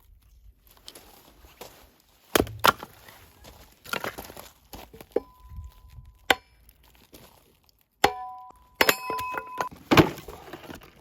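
Firewood being split with an axe: about seven sharp chopping blows into wood, spread unevenly. Short ringing tones follow some of the blows.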